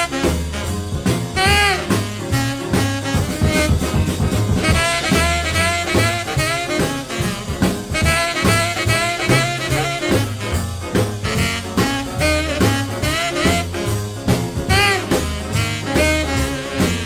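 1950s New Orleans rhythm and blues record playing: an instrumental passage with horns over a steady beat.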